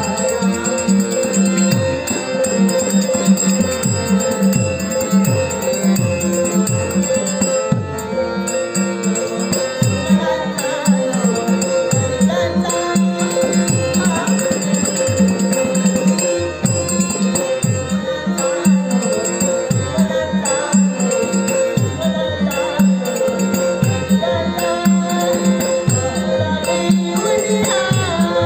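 Instrumental interlude of a Marathi Dashavatar folk song: a harmonium holds a steady drone and melody over a pakhawaj. The drum's bass strokes slide down in pitch, several a second, and small cymbals rattle along.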